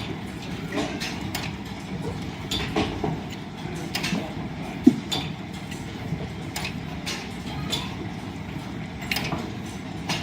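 Line-shaft-driven wood lathe running with a steady mechanical rumble, crossed by irregular clicks and knocks, one sharper click about five seconds in.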